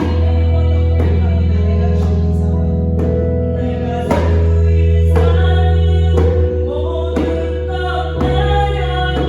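Worship song performed live: held accompaniment chords over a deep sustained bass, a singing voice, and djembe strokes about once a second.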